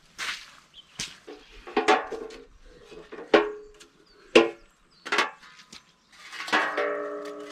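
Wood being chopped: six sharp strikes, roughly one a second, each with a short woody ring. Near the end a steady sustained tone begins.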